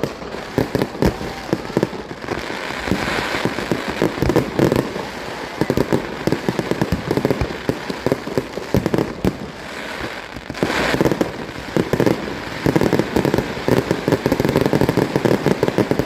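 Fireworks going off, a dense run of rapid pops and crackles that grows heavier about two-thirds of the way through.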